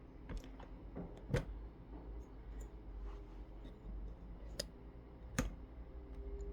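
Faint scattered clicks and taps, the sharpest about one and a half, four and a half and five and a half seconds in, over a low steady hum.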